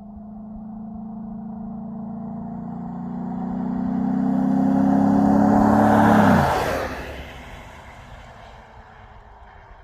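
Ford F-150's 5.0 V8 accelerating hard at wide-open throttle, its note climbing in pitch as it draws closer. About six seconds in it passes at its loudest, the pitch drops sharply, and the engine and tyre noise fade away as it drives off.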